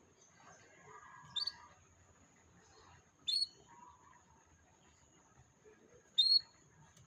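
Domestic canary giving short, sharp chirps, three in all, a couple of seconds apart, with softer twittering in between.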